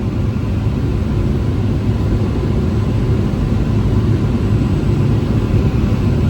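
Air-conditioned electric multiple-unit local train running on the line, heard from inside the coach: a steady low rumble of wheels and running gear that grows slightly louder.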